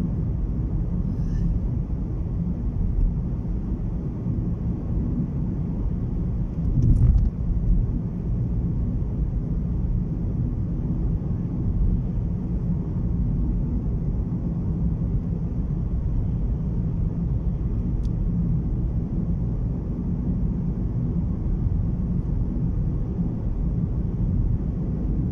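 Steady low rumble of road, engine and wind noise inside a moving car's cabin, with a brief louder surge about seven seconds in.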